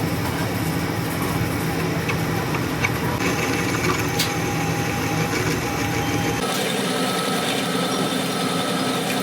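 A motor or engine running steadily with a few light clicks. Its low hum drops out suddenly about six and a half seconds in, leaving a higher steady machine tone.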